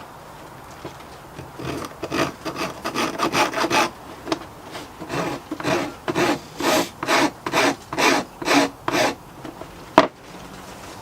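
Scrubbing a plugged chainsaw air filter by hand to clear caked dirt: rhythmic back-and-forth scraping strokes, about two to three a second with a short pause partway through, then one sharp knock about ten seconds in.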